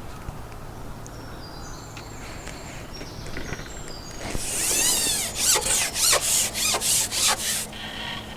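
Carbon match-fishing pole being shipped back in quick rubbing strokes, about three a second, after a fish has been hooked on the pole elastic. The strokes start about four seconds in and stop about three seconds later.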